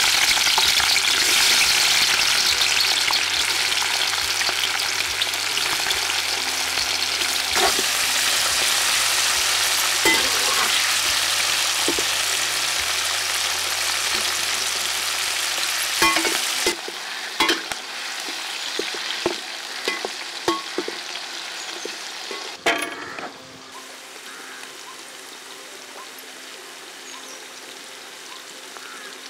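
Sliced onions sizzling in hot oil in a large metal kadai, stirred and scraped with a metal spatula. The frying hiss is loud at first and dies down in steps, with the spatula clicking against the pan in the second half, and a quieter steady sizzle remains near the end.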